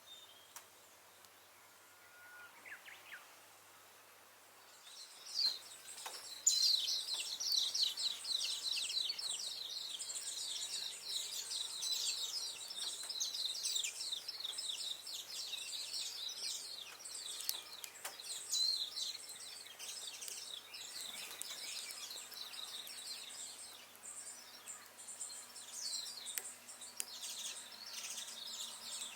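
Many small birds chirping rapidly and continuously from about five seconds in. A few sharp crackles from the burning wood fire come through now and then.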